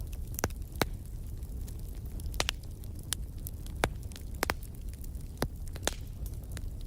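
Wood fire in a fireplace crackling: irregular sharp pops and snaps, about eight strong ones among many smaller ticks, over a steady low rumble of the flames.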